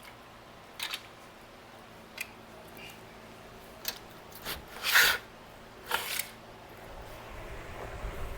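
Scattered clicks, light knocks and rustling scrapes of hands working on an e-bike to get its battery out, about eight short sounds with the loudest, longest rustle about five seconds in.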